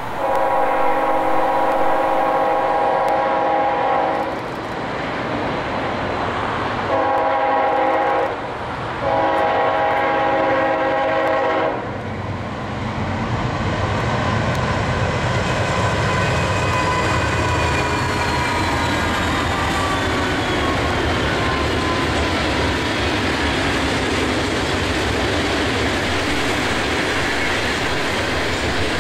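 Diesel freight locomotive horn sounding a long blast, a short one and another long one. Then the train passes: a steady rumble of locomotive engines and rolling freight cars, with a falling whine in the middle of it.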